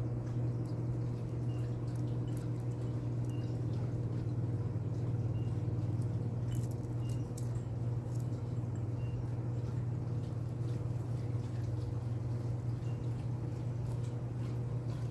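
Pet bird eating fruit: small beak clicks and wet nibbling sounds, with short faint peeps every second or so, over a steady low electrical hum that is the loudest sound throughout.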